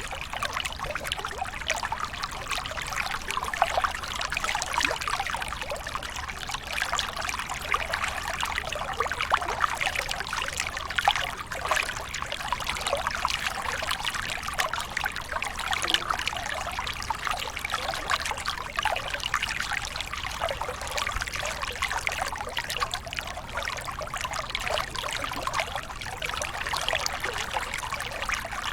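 Waterfall water pouring and splashing steadily, a dense, even patter of small splashes with no change through the stretch.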